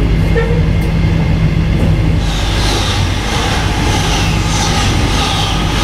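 Steady rumble of a passenger train carriage running along the track, heard from inside the car. About two seconds in, an opposing CRH1A high-speed train passes close alongside, adding a rushing hiss that carries on to the end.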